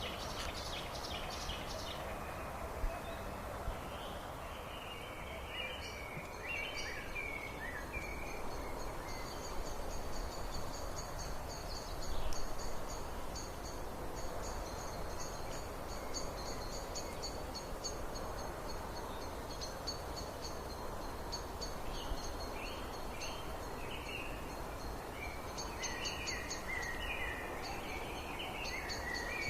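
Birds singing over a steady background hiss: a high, rapid trill runs through most of it, with shorter chirping phrases near the start and again near the end.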